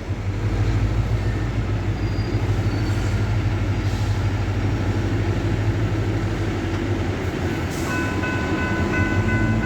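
Freight train of loaded rock hopper cars rolling through a grade crossing with a steady low rumble. About eight seconds in, a steady high ringing of several pitches at once joins the rumble.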